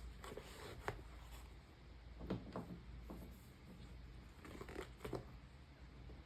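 Soft handling noises of a new sling bag and its packaging: light rustling with a few scattered short clicks and taps.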